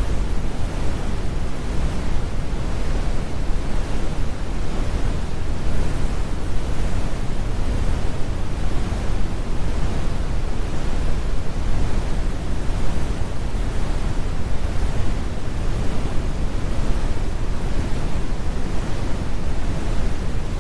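Steady, synthetic brown noise: an even, deep rumbling hiss, heaviest in the bass and rolled off in the highs, with no changes or events.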